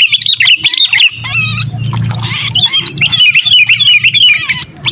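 Sooty-headed bulbul (kutilang) giving fast, harsh, chattering distress calls, the calls of a bird caught and pinched, in two runs with a short break about a second in. A low hum runs underneath.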